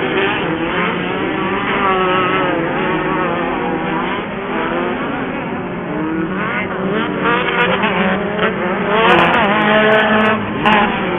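Several off-road race buggy engines running hard at once, their pitches rising and falling as the drivers rev, lift and get back on the throttle around the dirt track.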